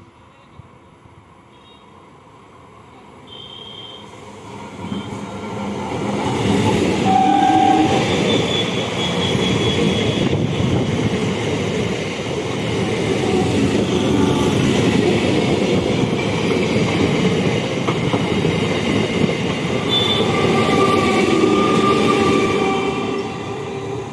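An electric multiple-unit local train approaches and passes close by at speed. Its rumble builds over the first six seconds, stays loud for about seventeen seconds as the coaches go by, and eases near the end.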